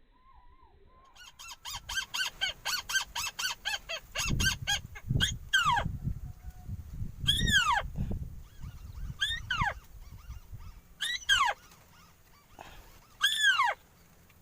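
Birds calling: a fast run of short calls, about three to four a second, then loud calls that slide steeply down in pitch, repeating about every two seconds. A low rumble sits under the calls in the middle.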